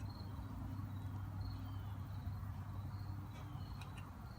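Quiet room background: a steady low hum with a few faint, short high-pitched chirps and a couple of light clicks near the end.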